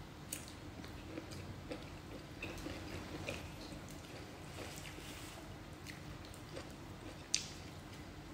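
Faint close-up eating sounds: chewing and biting of rice and fried fish, with scattered light clicks and one sharper click about seven seconds in.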